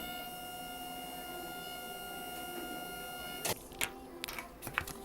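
A steady, high electric whine from a small machine, which cuts off abruptly about three and a half seconds in, followed by several sharp clicks and knocks.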